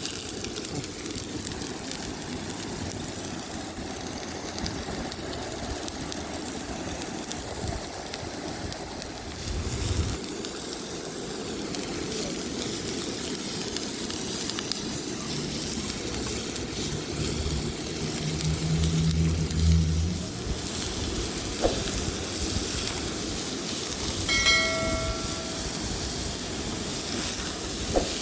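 Steady sizzling hiss of food frying in a pan over a wood fire. A low hum comes in for a few seconds midway, and a short pitched chirp sounds near the end.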